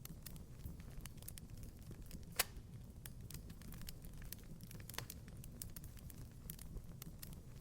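Wood fire crackling in a fireplace: irregular small pops and ticks over a low steady rumble, with a sharper snap about two and a half seconds in and another about five seconds in.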